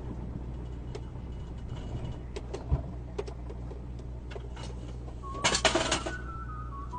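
Steady low hum of a car's engine and road noise picked up by a dashcam inside a moving vehicle, with scattered sharp clicks and a short run of tones stepping down in pitch near the end.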